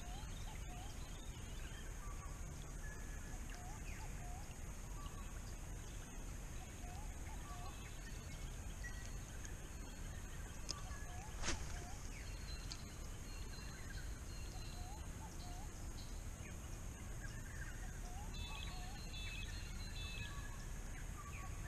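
Birds calling and singing: many short chirps and whistles, some in quick repeated runs, over a steady high hiss, with one sharp click about halfway through.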